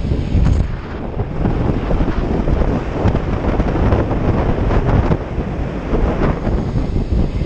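Loud wind rush buffeting the microphone at riding speed on a Kawasaki Ninja 300, with the bike's parallel-twin engine running underneath.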